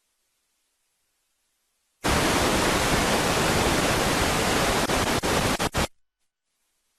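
A sudden, loud burst of static-like hiss lasting about four seconds. It starts abruptly two seconds in, stutters with a few brief dropouts near the end, then cuts off sharply.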